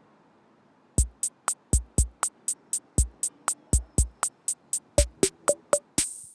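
Electronic drum-machine beat: kick drum and hi-hat hits at about four a second, starting about a second in, with a few short pitched notes near the end. It cuts off suddenly.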